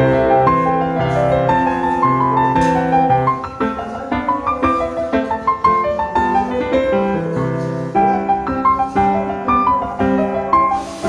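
Background piano music playing a steady run of notes.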